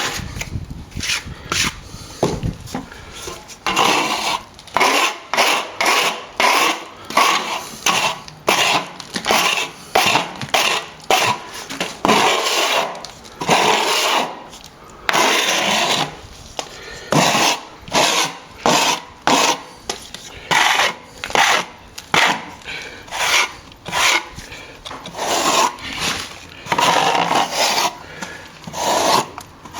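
A hand tool scraping back and forth over a nearly set patch of sand and stopping plaster, in short irregular gritty strokes, about one or two a second, with a few longer drawn strokes between.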